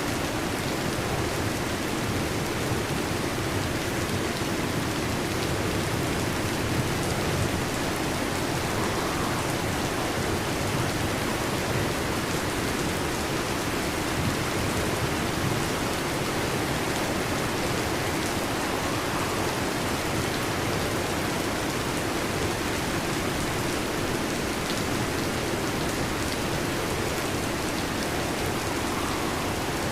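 Heavy rain falling steadily, an even, unbroken hiss and patter.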